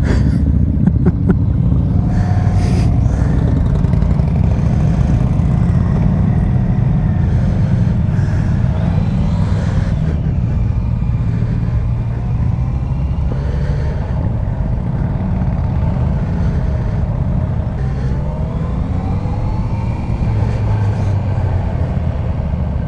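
Motorcycles riding in a group at road speed: a steady, loud rush of wind and engine rumble, with engine notes rising in pitch as bikes accelerate a few times in the middle and near the end.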